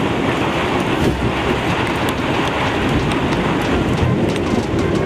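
Heavy downpour of thunderstorm rain, a steady dense hiss with scattered sharp drop impacts.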